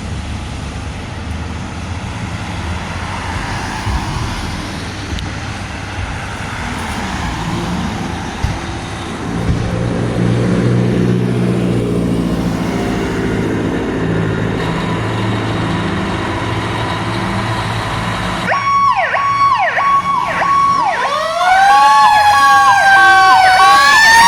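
A vehicle engine running close by, growing louder about nine seconds in. Near the end an emergency vehicle's siren starts: first a chopped steady tone with quick falling sweeps, then a wail that rises and falls in pitch and grows loud.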